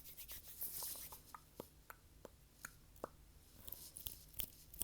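Fast, irregular ASMR tapping and clicking close to the microphone, with a short stretch of hand rubbing about a second in.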